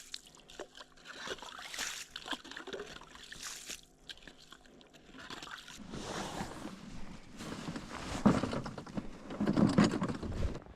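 An ice scoop working in freshly drilled ice-fishing holes, scraping and sloshing slush and ice chips out of the water. It is faint at first and gets louder and busier in the last few seconds.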